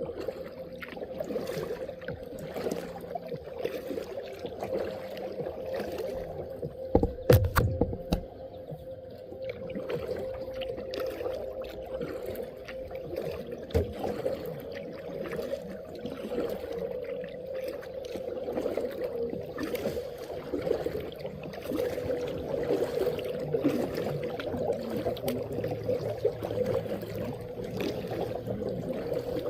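Kayak paddling on open water: the paddle splashes and drips in irregular strokes over a steady low hum. There is a sharp knock about seven seconds in.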